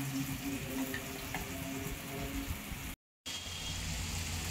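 Wet mint paste sizzling in hot oil in a non-stick pan while it is stirred with a spatula, a steady frying hiss. The sound drops out completely for a moment about three seconds in, then the sizzling goes on.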